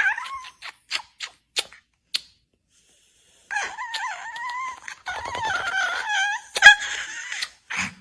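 A few short, high squeaky yips, then after a pause a long wavering animal call that rises and falls in pitch for about four seconds.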